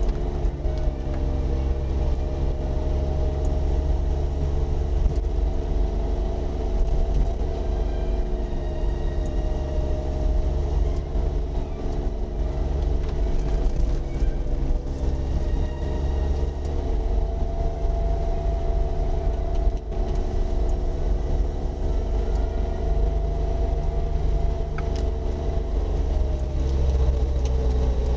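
Suzuki Jimny JA11's small turbocharged three-cylinder engine running at a steady cruise, heard from inside the cabin, over a deep, constant low rumble.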